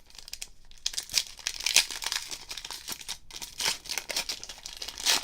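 Plastic trading-card pack wrappers crinkling and rustling while cards are handled, in irregular bursts with small clicks.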